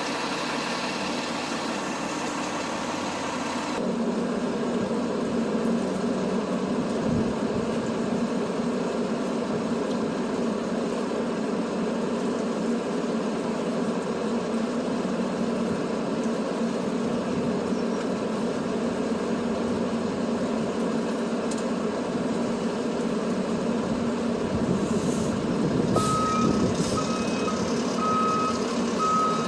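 A heavy truck's engine running steadily. Near the end a vehicle's reversing alarm starts beeping repeatedly.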